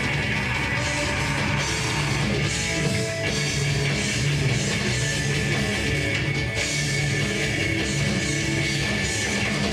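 Live rock band playing a song with guitar and drum kit, dense and unbroken.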